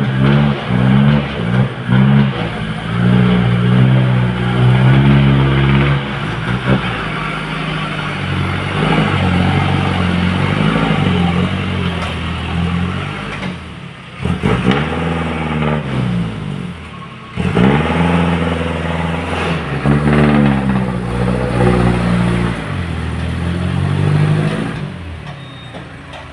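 Sand truck's engine revving hard, labouring under load through soft ground. Its pitch climbs and falls again and again, easing off briefly twice in the second half before surging back.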